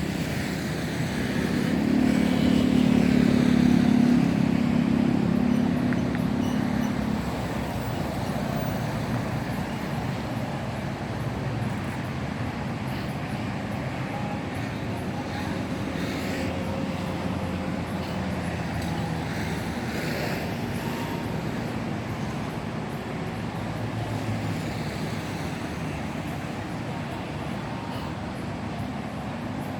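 Steady outdoor road-traffic noise, with a louder engine hum passing in the first few seconds.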